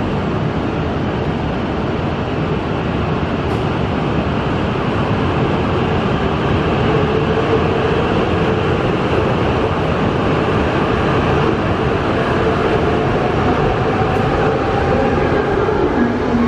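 Tohoku Shinkansen train pulling away. Its running noise builds slightly, and a faint whine rises in pitch in the second half as it gathers speed.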